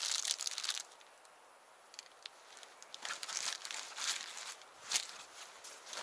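Crinkling, rustling noises in several short bursts, like material being handled: one right at the start, a longer spell about three to four seconds in, and a sharp one near the end.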